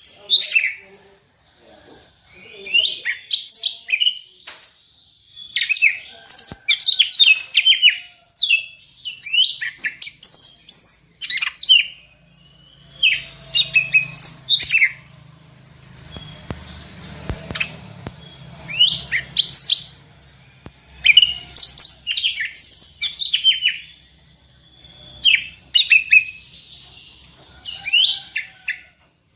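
Greater green leafbird (cucak ijo) singing loud, varied song in bursts of rapid whistles and chirps a second or two long, with short pauses between. The song is rich in mimicked phrases.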